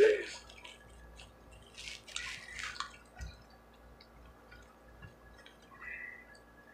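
Close-up mouth sounds of eating honey-and-hot-sauce fried chicken wings: sticky, wet chewing and lip smacking in short clicks, with a run of louder smacks about two seconds in.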